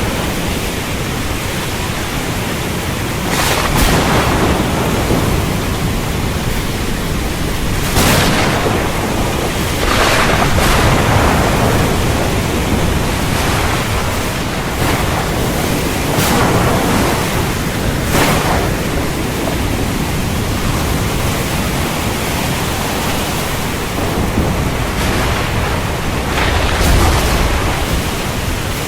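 Heavy rain pouring steadily with low rumbling thunder, the downpour surging in loud gusts every few seconds.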